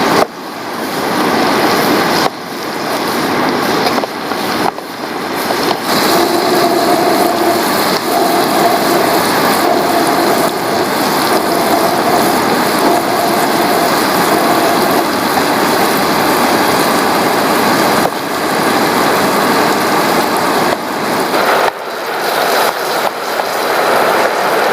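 Green-chili sambal frying in oil in a pan, a steady loud sizzle, with a faint low hum for a while midway.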